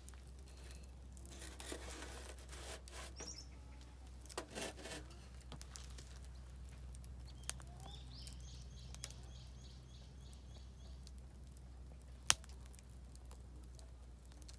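Oak firewood crackling and popping in a campfire, with a sharp single pop about twelve seconds in. A small bird sings a quick trill of repeated high notes a little past the middle.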